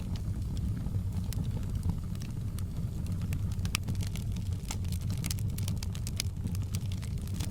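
Wood fire crackling in a fireplace: irregular sharp pops and snaps over a steady low rumble, the pops coming thicker in the second half.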